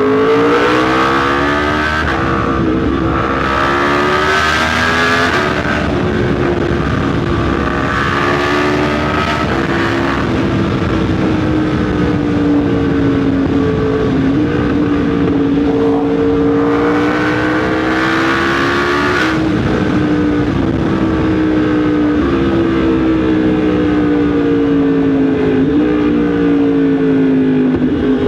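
Yamaha MT-10 SP's crossplane inline-four engine running under way, its pitch rising and falling with the throttle and stepping at several gear changes. A rushing hiss comes and goes a few times.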